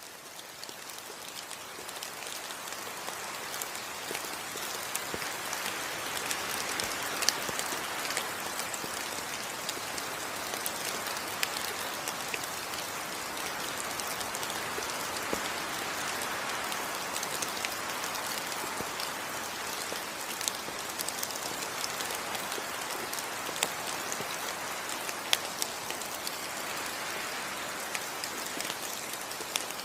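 Rain falling in a tropical rainforest: a steady, dense hiss of rain with many single drops ticking close by. It fades in over the first couple of seconds, then holds steady.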